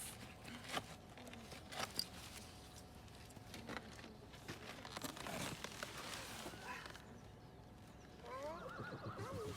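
A horse whinnying about eight seconds in: a short run of quavering calls that rise and fall in pitch. A few light clicks and knocks come earlier.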